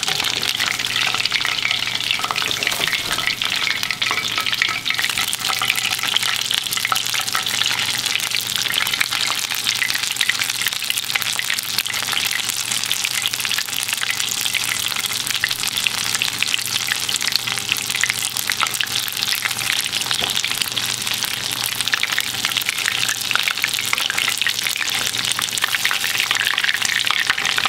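Battered fish frying in hot oil in a cast-iron skillet: a steady, dense crackling sizzle.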